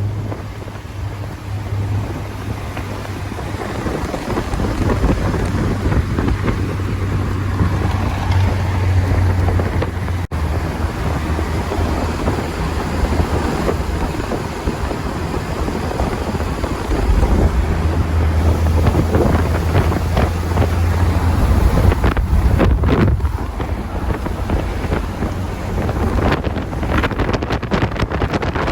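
Morgan Plus 4 sports car driving at highway speed, its four-cylinder engine droning steadily under heavy wind rushing over the microphone. The engine note drops lower for a few seconds past the middle, and there is a brief break about ten seconds in.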